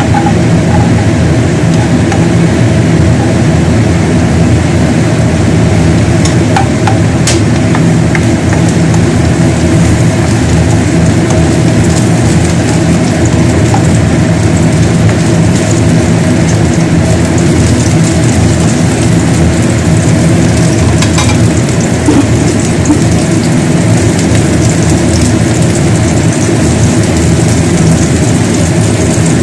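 Food sizzling as it fries, over a steady low hum.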